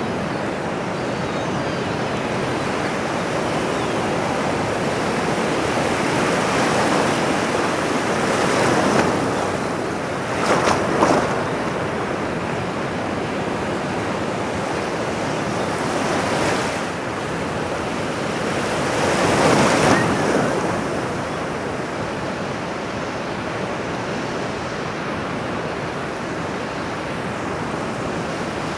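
Ocean surf: a steady rush of waves washing in, with several swells as waves break and a couple of sharper splashes near the middle.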